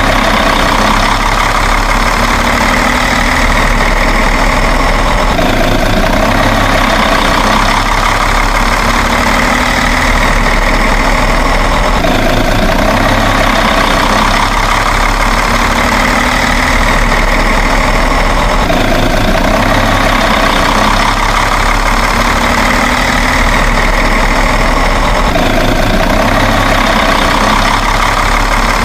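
Truck engine idling steadily, loud and unchanging, with a faint pattern that repeats every few seconds.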